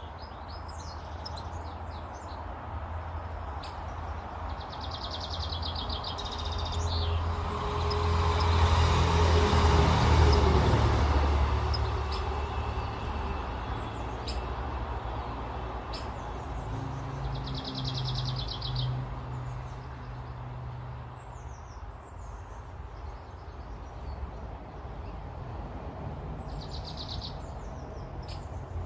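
Small garden birds chirping and singing, with short high buzzy trills repeated several times. A vehicle passes, swelling to a peak about a third of the way through and then fading.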